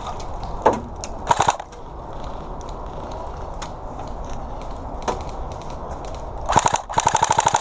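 Airsoft guns firing: a short rapid burst about a second and a half in, then a longer, faster full-auto burst near the end, with scattered single pops throughout.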